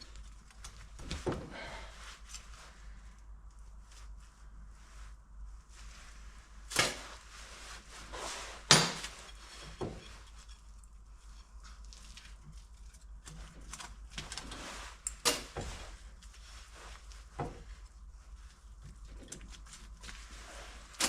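Scattered clicks, light scrapes and a few sharper metallic knocks as the old piston rings are worked off a diesel engine piston by hand; the loudest knock comes about nine seconds in.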